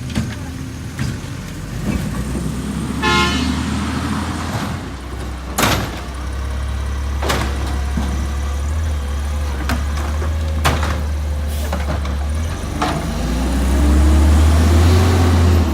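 Garbage truck's diesel engine running with a deep, steady drone that rises in level near the end. A brief horn-like toot comes about three seconds in, and several sharp knocks and bangs sound through the rest.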